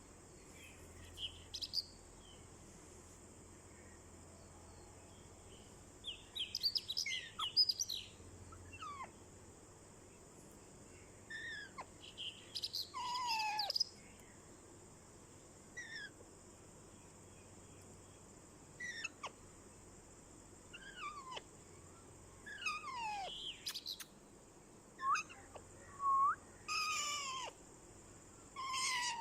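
Ringneck parrot calling in about nine short bursts of sharp, quickly falling squawks and chirps, spaced a few seconds apart.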